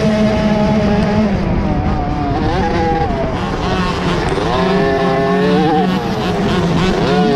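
Several 50cc two-stroke motocross bikes racing, their high-pitched engines revving up and easing off, overlapping one another.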